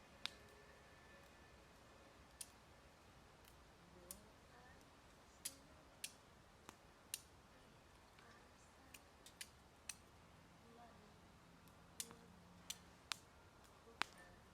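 Wood fire crackling in a fire pit: sharp, irregular pops and snaps, about one a second, over a quiet background.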